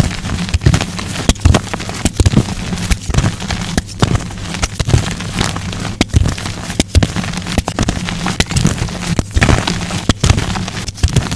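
Blocks of dyed gym chalk crushed by hand: an irregular run of sharp snaps and crunches, several a second, over a faint steady low hum.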